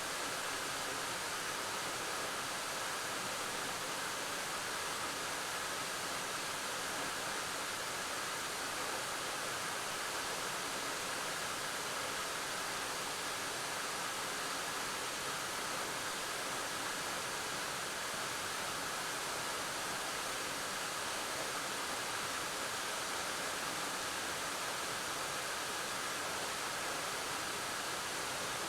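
Waterfall pouring steadily into its pool: an even, unbroken rush of falling water.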